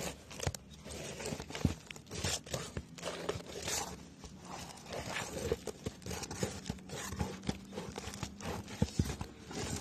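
Asphalt roof shingles being pried up and their nails worked loose: irregular clicks, cracks and scrapes of a metal tool against the shingles and nails.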